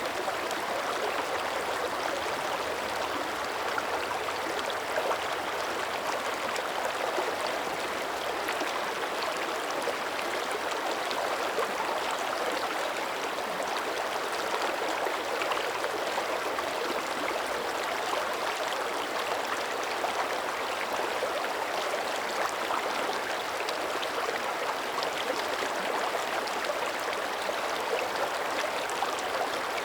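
Mountain creek running steadily, a continuous rush of flowing water with small flickers of splashing.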